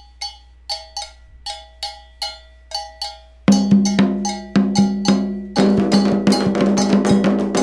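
Metal double bell (agogô) struck in a repeating two-note pattern, joined about three and a half seconds in by hand drums (atabaques), with fuller drumming from about five and a half seconds: the percussion of an Afro-Brazilian ritual for Xangô.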